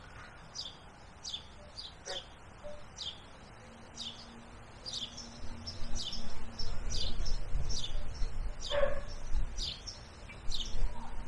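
A bird calling over and over, a short, high, falling chirp repeated roughly every two-thirds of a second. A low rumble comes in about halfway through.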